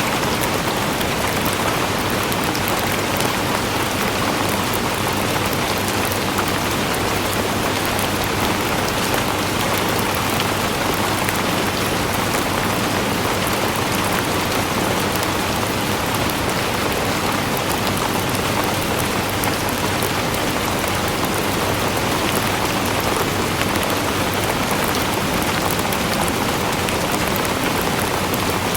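Steady rain falling on a surface, an even hiss with many fine drop ticks throughout.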